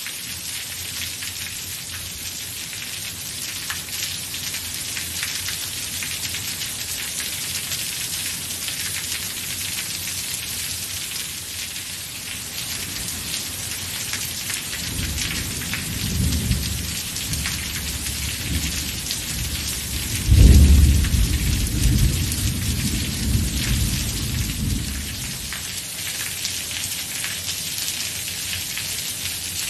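Steady heavy rain falling. About halfway through a roll of thunder rumbles in, breaks into a sudden loud clap about two-thirds of the way in, then rumbles away.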